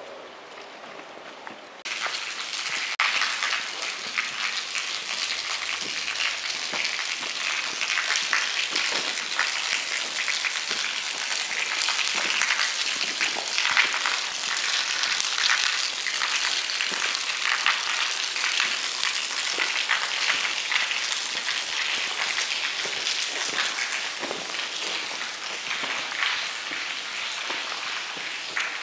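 Rain falling: a dense, steady pattering hiss that sets in suddenly about two seconds in.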